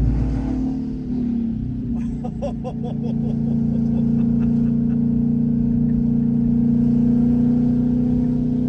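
Twin-turbo Mustang engine, fitted with turbo dump pipes, running at a steady cruise with a constant drone. A short patch of clicks and uneven sound comes about two seconds in.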